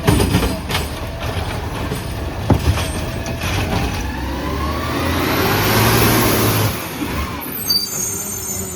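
Autocar ACX automated side-loader garbage truck at work: the engine rises in pitch and swells over a few seconds, then drops back, followed by a sharp air hiss near the end.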